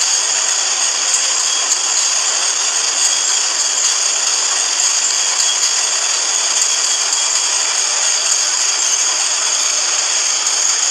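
A train running past on the rails: a steady rushing rattle of wheels on track with faint scattered clicks, thin and nearly without bass.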